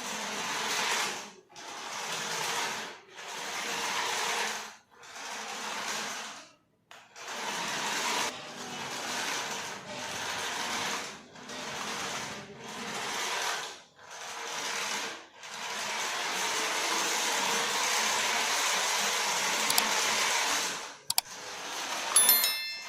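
Small electric motor of a remote-control toy whirring in short bursts, about a second or so each with brief gaps, then a longer run of several seconds. A few short electronic tones near the end.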